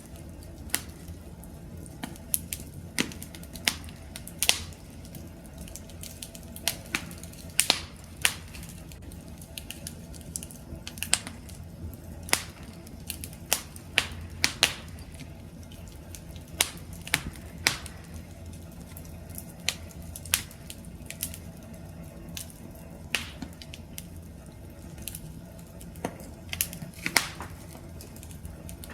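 Wood campfire crackling: irregular sharp pops and snaps, one or two a second, over a steady low rumble of the burning fire.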